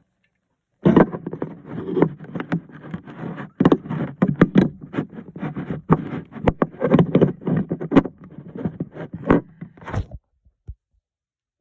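Handling noise from unpacking a small plastic toy playset: irregular scraping, rustling and sharp plastic clicks and knocks. It starts about a second in and stops shortly before the end.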